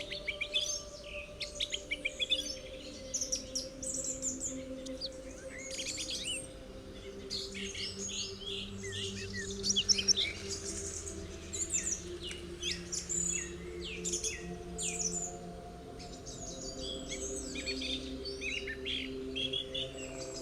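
Woodland birdsong: several small birds chirping and trilling in quick, overlapping phrases. Beneath them runs a soft drone of held low notes that shift slowly.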